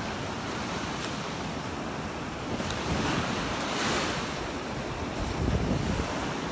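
Gulf of Mexico surf washing onto the beach, with a louder hissing wash about three to four seconds in. Wind buffets the microphone in low gusts, strongest about five seconds in.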